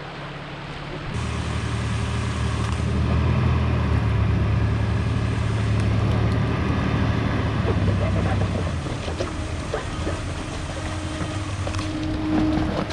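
Off-road truck engine running under load as it crawls the trail. It swells about a second in, holds steady, then eases off after about eight seconds. Scattered clicks and knocks are heard near the end.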